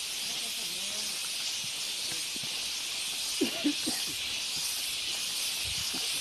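Waterfall rushing: a steady hiss of falling water, with a few short voice sounds a little past the middle.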